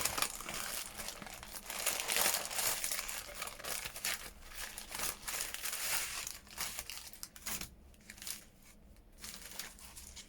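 Thin craft papers such as tissue and tea-bag paper crinkling and rustling as they are rummaged through and handled. It is busy for about the first seven seconds, then thins out to a few quieter rustles.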